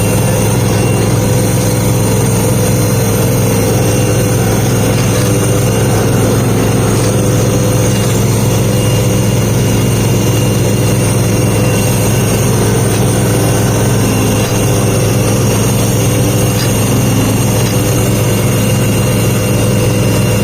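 Garden tractor engine running steadily at a low, even speed, with no revving.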